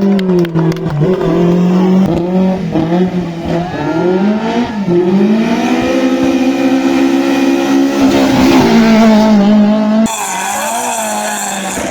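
Race car engine revving hard, its pitch climbing and dropping again and again through gear changes and lifts, then holding a long steady rise. About ten seconds in, the sound cuts abruptly to another race car's engine, a little quieter.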